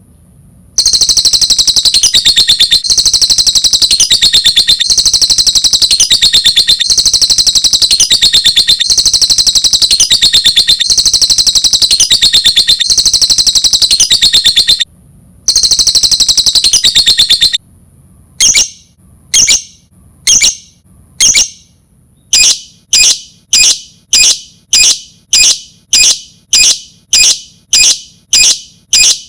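Lovebird chattering in long, very rapid high-pitched chirping trills, then switching to single sharp chirps repeated about once a second that quicken toward the end. This is the kind of lovebird call played as a lure to set other lovebirds calling.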